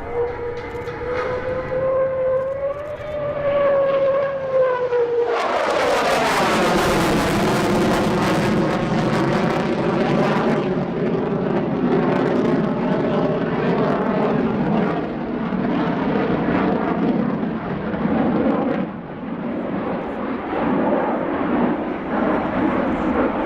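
Boeing F-15EX Eagle II jet fighter passing by: a steady, slightly wavering turbine whine for the first few seconds, then, about five seconds in, a sudden loud blast of jet noise with sweeping, shifting tones as it passes, settling into a long, loud rumble.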